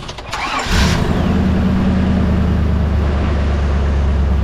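1951 Chevy truck's engine cranked by the starter and catching within about a second, then settling into a steady idle.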